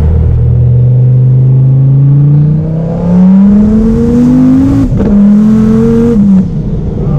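Twin-turbo Dodge Viper V10 under hard acceleration, its pitch climbing steadily for about four seconds. There is a quick upshift about five seconds in, then it pulls again and backs off near the end.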